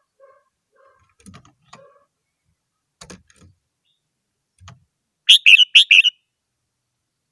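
Red-whiskered bulbul singing one short, loud phrase of quick warbled notes about five seconds in. Before it there are a few faint low notes and soft clicks.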